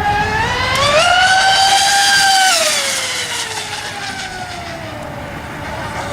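A radio-controlled S-cat racing catamaran running oval laps at speed, its drive giving a high-pitched whine. The pitch climbs and holds, drops sharply about two and a half seconds in and slides lower for a couple of seconds, then starts rising again near the end.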